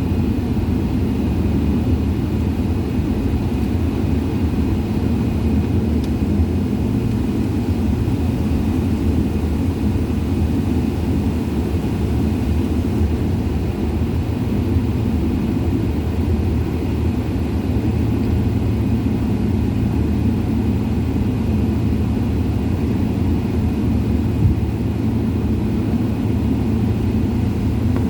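Airliner cabin noise: a steady, unchanging rumble of jet engines and airflow heard from inside the cabin, with a faint high whine.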